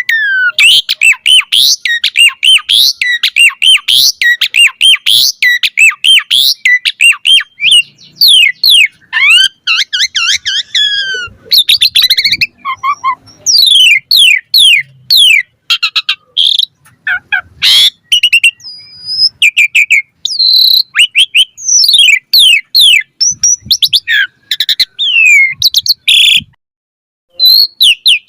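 Asian pied starling (jalak suren) singing a long, varied song of rapid, downward-sweeping whistles and chattering notes. It pauses briefly about twelve seconds in and falls silent for about a second near the end.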